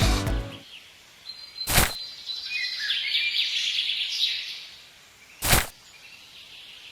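Music cuts off within the first second. Then birds chirp faintly over an outdoor background, broken twice by a short burst of noise about four seconds apart.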